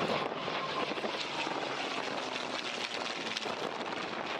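Piston engines of propeller-driven WWII warbirds, the Lancaster, B-25 and Firefly formation, running steadily as the aircraft fly past.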